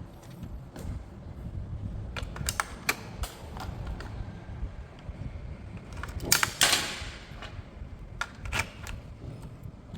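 Hard plastic handled by hand: scattered sharp clicks and taps, with a louder rustling scrape lasting about a second just past the middle.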